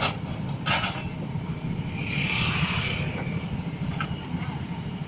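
Heavy diesel truck engine running steadily, with a short rushing hiss about two seconds in.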